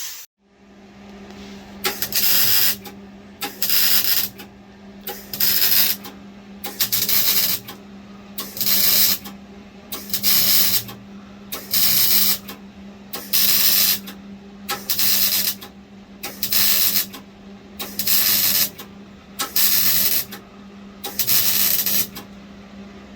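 Stitch-welding a car's exhaust pipe: about fifteen short bursts of hiss, each under a second and about a second apart, over a steady low hum.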